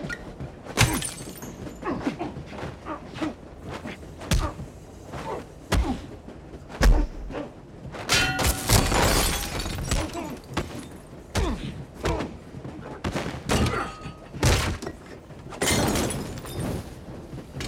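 Movie fight sound effects: a string of heavy thuds and crashes of bodies and objects striking hard surfaces, with glass shattering, spaced irregularly a second or two apart.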